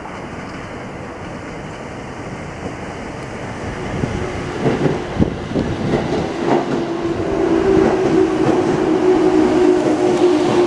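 Sobu Line local electric train pulling into the platform. It gets louder from about four seconds in, its wheels clacking over rail joints, then a steady hum builds over the last few seconds as the train comes alongside.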